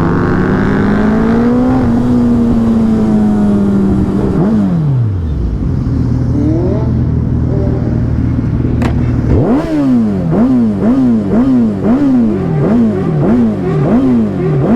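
A high-performance engine revving: one rev climbs and is held, then falls away about four seconds in, and from about halfway a run of quick throttle blips, about two a second, rises and falls over engines idling.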